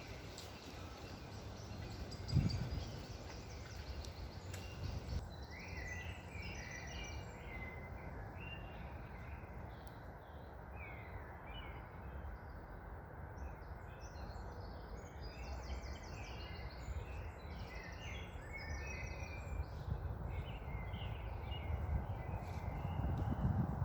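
Songbirds chirping and trilling in many short notes, thick from about five seconds in, over a steady low wind rumble, with one low thump a couple of seconds in.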